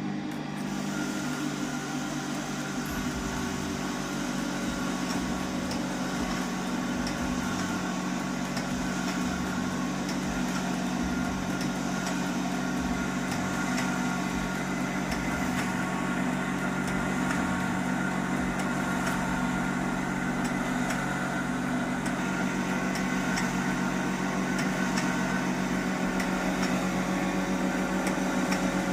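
Domestic electric flour mill (aata chakki) running steadily and grinding grain: a steady motor hum under a grinding hiss with faint scattered ticks. This is a test run with grain after a jammed pebble was cleared from the mill.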